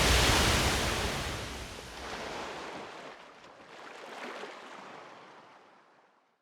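Rushing sea-wave noise, loudest at the start and dying away, with a smaller swell about four seconds in, fading out to silence.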